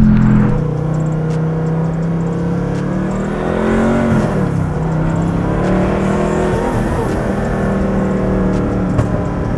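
The twin-turbocharged LS7-based V8 of a 1969 Camaro, heard from inside the cabin under hard acceleration. The engine is high in the revs at the start and its note drops about half a second in. It then climbs again toward about four seconds in and drops back to a steadier drone.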